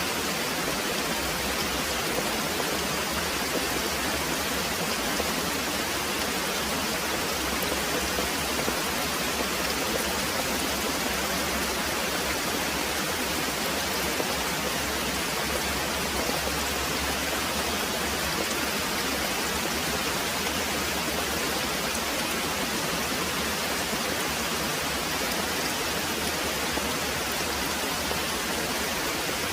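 Very heavy rain falling in a steady, even downpour, with no thunder standing out.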